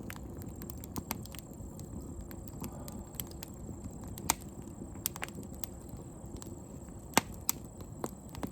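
Wood campfire crackling: scattered sharp pops and snaps over a low, steady rumble, the loudest pops a little after four seconds in and about seven seconds in.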